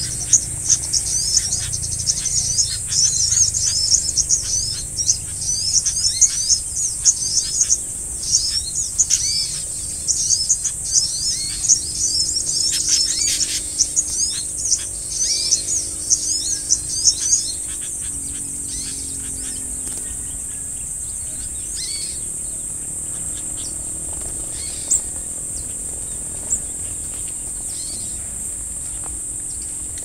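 Cucak kombo birds chirping rapidly in dense, high calls that break off a little past halfway, leaving only scattered single chirps. A steady high-pitched insect buzz runs underneath.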